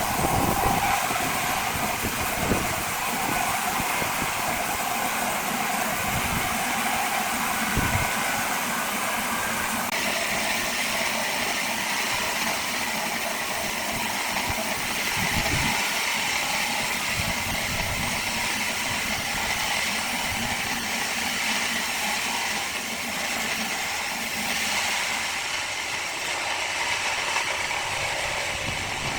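Steady mechanical noise with a hiss, with a few short knocks in the first several seconds and a change in tone about ten seconds in.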